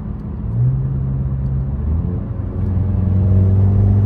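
Mercedes-AMG C63's V8 engine running under way with a steady note that steps up in pitch about half a second in, drops to a lower note around two seconds in, and grows louder from about three seconds.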